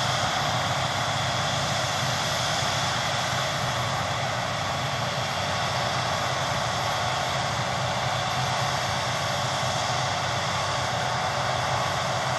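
Claas Lexion 660 combine harvester running steadily while harvesting, an even machine drone with no change in pitch or level.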